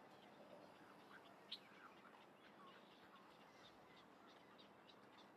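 Faint background with a few short, distant bird chirps scattered through it, and one brief click about a second and a half in.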